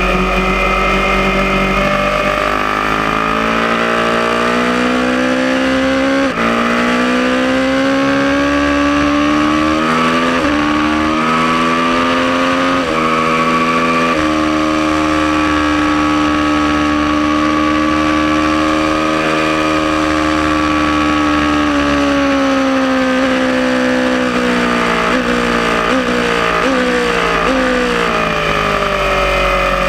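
Aprilia Tuono motorcycle engine under hard acceleration on track, revving up through the gears with about four quick upshifts, holding steady revs for several seconds, then falling with a series of downshift blips near the end, over steady wind rush.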